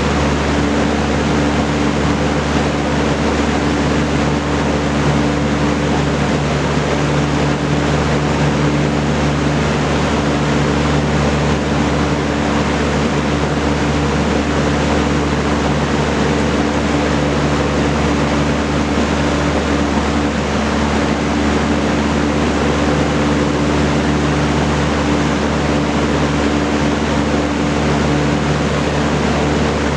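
Vintage Kenmore Roll-A-Matic 20-inch reversible box fan with a four-blade propeller running steadily: an even rush of air over a steady motor hum.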